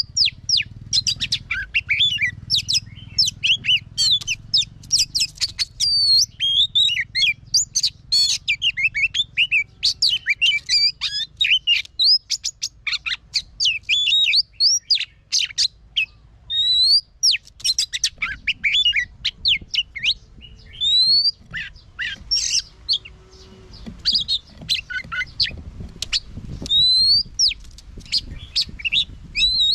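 Oriental magpie-robin singing a long, varied song of rapid whistles, trills and sweeping notes, with a brief lull about halfway through.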